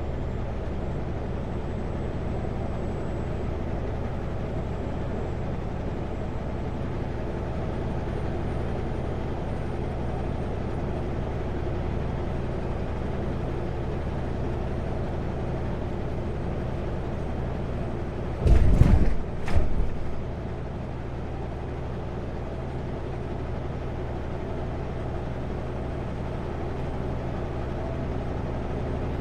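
Kenworth W900L semi truck driving at highway speed: a steady diesel engine drone with road noise. About two-thirds of the way in, two short loud thumps come about a second apart.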